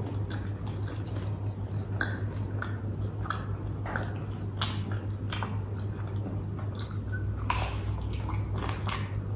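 Close-miked eating: jalebi soaked in rabri chewed and bitten, with irregular wet, sticky clicks and smacks that are strongest about seven and a half seconds in, over a steady low hum.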